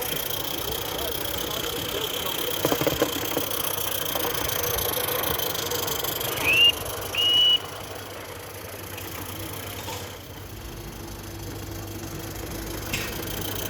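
Live-steam model locomotive's whistle giving two short toots about six and a half seconds in: the first slides up in pitch, the second is held steady and high.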